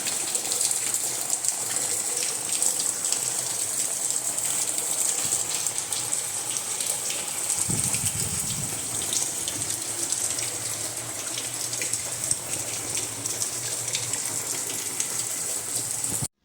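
Steady, even rush of water with many small patters through it, cut off abruptly near the end.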